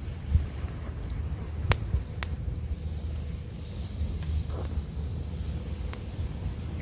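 Wood campfire crackling, with a few sharp pops, over a steady low rumble of wind on the microphone.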